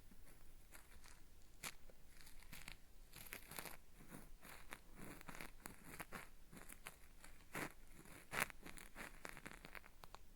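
Cotton swab scraping and rubbing against a binaural microphone's ear in an ASMR ear-cleaning sound. It gives irregular gritty, crackling, peeling-like scratches, with one louder scrape about eight seconds in.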